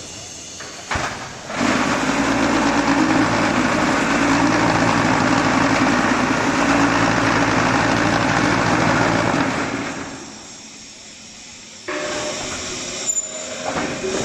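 QTJ4-25D concrete block machine running a vibration cycle: a loud, steady buzzing hum for about eight seconds, stopping about ten seconds in. Quieter machine running with a few clunks follows near the end.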